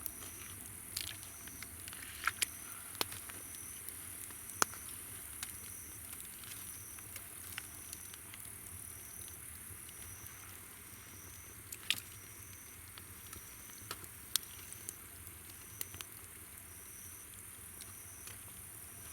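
Campfire wood crackling with irregular sharp pops, over a steady high-pitched insect chorus and one insect's short chirp repeating at an even pace, a little more than once a second.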